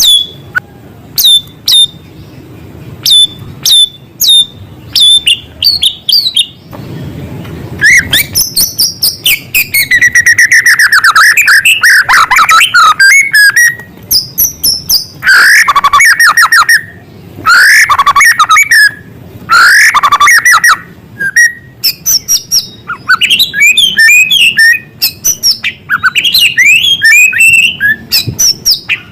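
White-rumped shama (murai batu) singing loudly in its varied, mimicking song: sharp separate chirps at first, then from about eight seconds in, long rapid trills and falling whistled phrases, breaking into quick varied chattering near the end.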